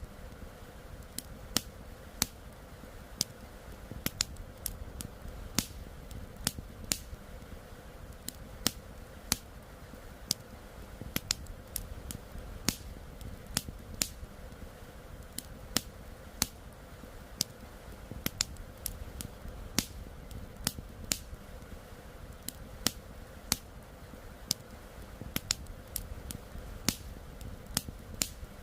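Wood fire crackling: irregular sharp pops and snaps, about two a second and some much louder than the rest, over a low steady rush of flowing river water.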